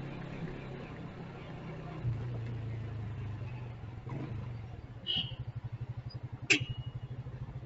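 Motorcycle engine running low and steady, picking up briefly about two seconds in. It then settles into an even, pulsing putter at idle in the second half. A single sharp click comes near the end.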